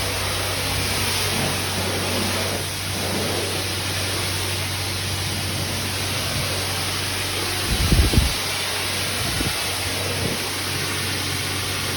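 Self-serve car wash high-pressure wand spraying soapy water onto a van: a steady hiss over a steady low hum, with a brief low rumble about eight seconds in.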